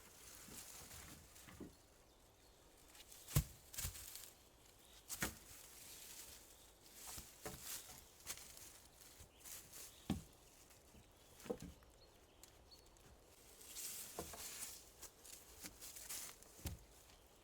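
Rustling of dry leaves and branches on a forest floor, broken by scattered sharp snaps and knocks of wood, a few of them louder, with no steady rhythm.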